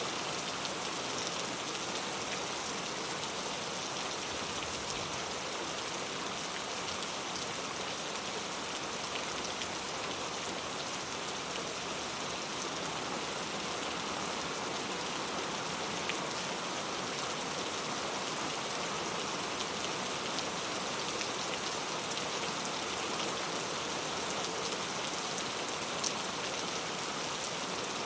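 Steady rain falling, a soft even hiss with scattered small drop taps.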